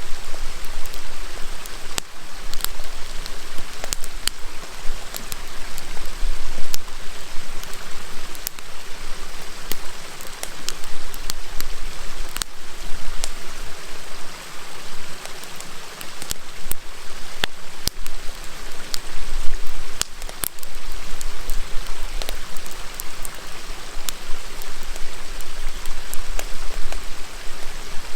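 Wood fire crackling, with many scattered sharp pops and snaps, over the steady rushing murmur of a river.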